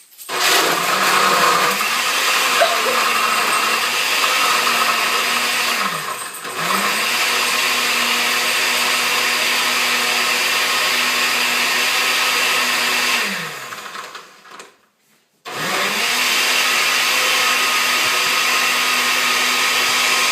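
Electric blender running, blending ice, milk, yogurt and crushed mint candies into a drink. It runs in three spells, spinning down and restarting twice: briefly about six seconds in, and with a pause of about a second after about thirteen seconds.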